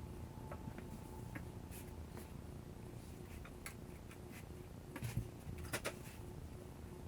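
Faint clicks and light knocks of a cast iron stove door being fitted onto its hinge pins, with a cluster of louder knocks about five to six seconds in.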